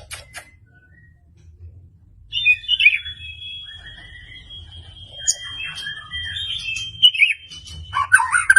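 White-rumped shama (murai batu) singing: a long, steady, high whistled note held for several seconds, with quick warbling notes running beneath it and a burst of fast notes near the end. A few sharp ticks come just at the start.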